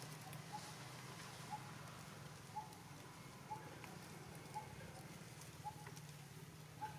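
An animal's short, single note, repeated evenly about once a second, over a steady low hum.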